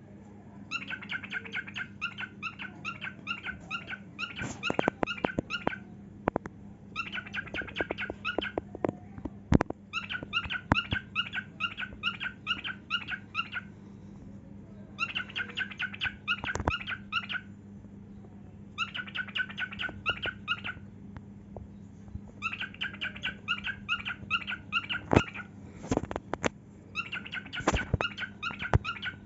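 Male grey cockatiel singing: a series of phrases of quick, repeated chirping notes, each lasting a second or two up to several seconds, with short pauses between them. Sharp taps come in clusters between the phrases, and a steady low hum runs underneath.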